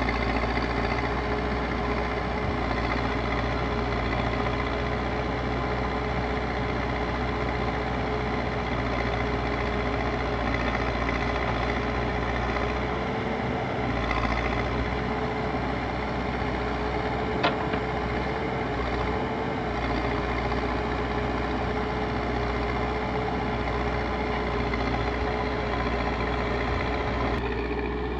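Backhoe loader's diesel engine running steadily with a constant hum, and one sharp knock about two-thirds of the way through.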